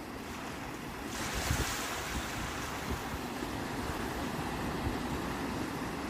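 Sea waves washing onto the shore: about a second in, a wave breaks and its hiss of surf spreads and lingers. Underneath runs a gusty low rumble of wind on the microphone.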